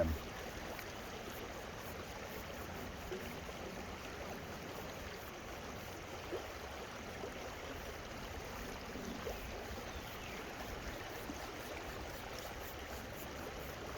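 A small creek running steadily, a constant hiss of flowing water.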